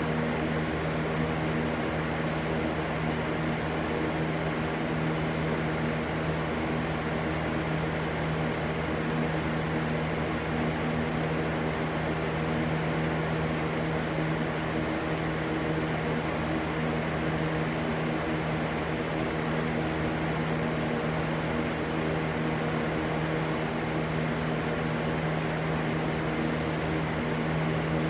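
Continuous steady rushing white noise with a low steady hum under it, unchanging throughout.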